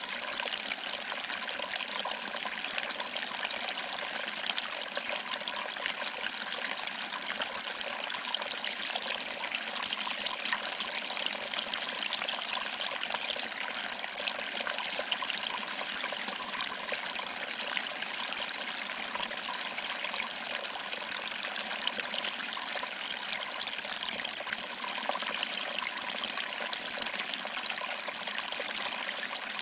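Small waterfall: water trickling over rocks and splashing into a small pool, a steady, even hiss of running water with almost no low rumble.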